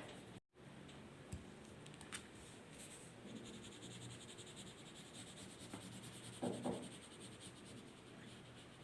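Faint scratching of a drawing tool on paper, with a few light clicks and two brief louder bumps about six and a half seconds in.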